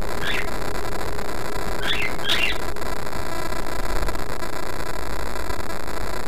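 A pet parrot giving three short chirps, one just after the start and two close together about two seconds in, over a steady loud hiss.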